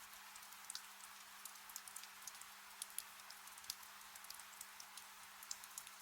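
Gentle rain: a soft steady hiss with scattered, irregular drips and taps of raindrops landing close by.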